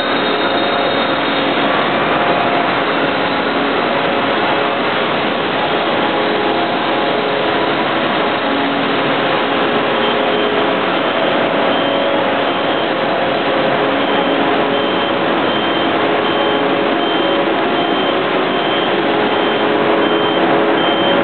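Steady loud running of industrial machinery in a forging plant, a dense noise with several steady hums and no hammer strikes. A high-pitched beep repeats about once a second from about halfway through.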